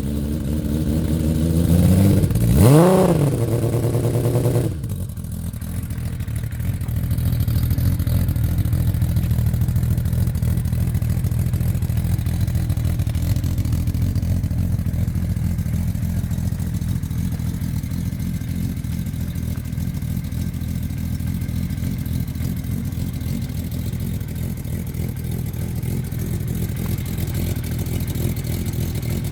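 Kawasaki KZ1300 inline-six engine running through a Delkevic 6-into-1 exhaust. It is blipped once, rising and falling, about two seconds in, then drops back to a steady idle for the rest.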